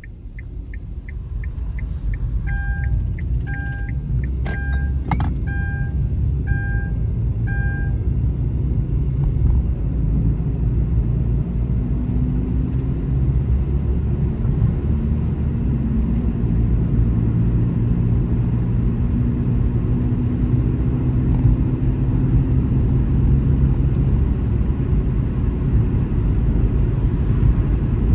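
A car driving on a highway: steady road and engine rumble that swells over the first couple of seconds as it picks up speed, then holds. Early on there is a quick ticking, then six short two-tone beeps about a second apart.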